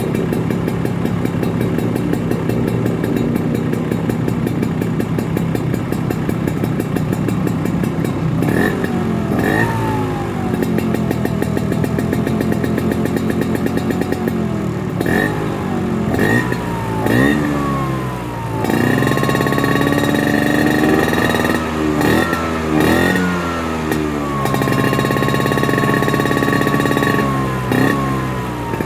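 Two-stroke Vespa scooter engine breathing through a PRP Racing standard S2 exhaust with an aluminium silencer. It idles steadily, is then blipped several times with quick rising and falling revs, and is held at higher revs twice before dropping back near the end.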